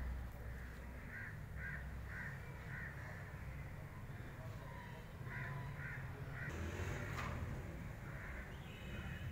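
A bird calling in short repeated calls: a run of about five in the first three seconds, then three more a little past halfway, over a low steady rumble.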